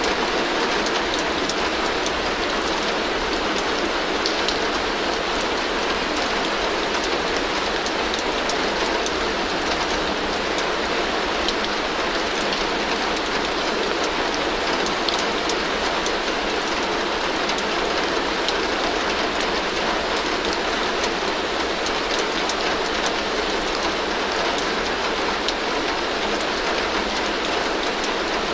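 Heavy rain falling steadily on a tin roof: an even, dense patter with countless small drop ticks on the metal, with no change in strength.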